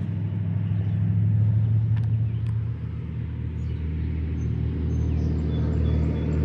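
A motor running steadily, a low hum that holds the same pitch throughout.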